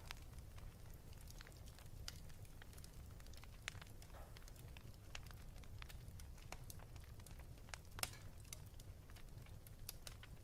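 Wood fire crackling in a fireplace: irregular sharp pops and snaps over a low steady rumble, with a louder pop about eight seconds in.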